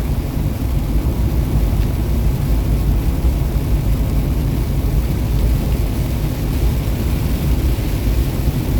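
Steady low rumble of a semi truck's engine and tyres on the road, heard inside the cab while driving.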